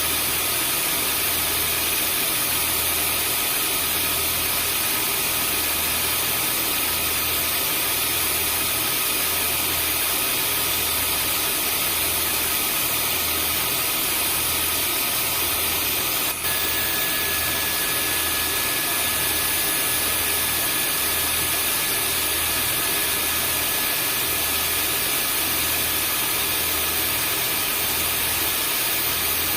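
Vacuum cleaner motor running steadily: a continuous rushing hum with a high whine over it. About halfway through there is a tiny dropout, after which a new whining tone joins.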